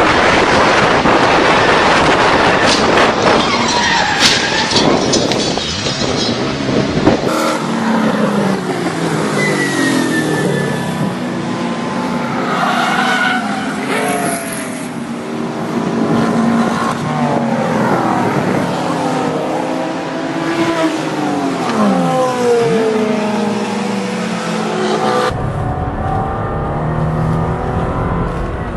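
Racing car engines running and passing, their pitch rising and falling, with rushing noise and some tyre squeal. The sound changes abruptly about seven seconds in and again near the end, as one clip gives way to the next.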